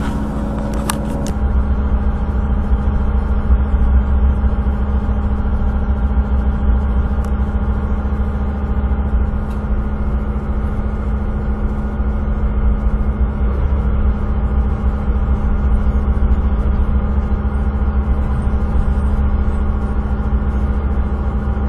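Passenger train running, heard from inside the carriage: a steady low rumble with a constant engine hum, and a couple of clicks about a second in.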